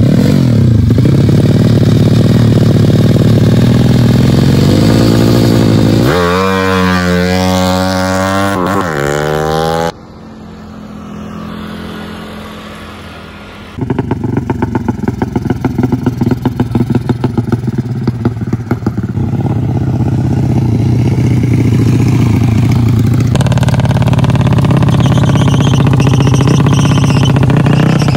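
Drag-race underbone motorcycle engines revving hard, their pitch sweeping up and down. The sound drops away for a few seconds about ten seconds in, then comes back as a loud, fast-pulsing engine running.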